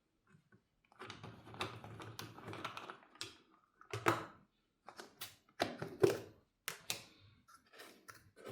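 Containers, caps and utensils handled while mixing a homemade limescale remover: an irregular series of sharp clicks and knocks, with rustling in the first few seconds.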